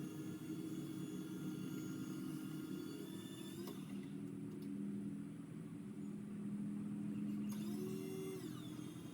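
A motor running steadily with a hum and a thin whine. Its sound shifts a little under four seconds in, and near the end its pitch briefly rises and falls back.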